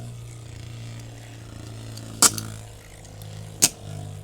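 Beyblade X spinning tops whirring in a plastic stadium, with two sharp plastic clacks about a second and a half apart, about halfway through and near the end.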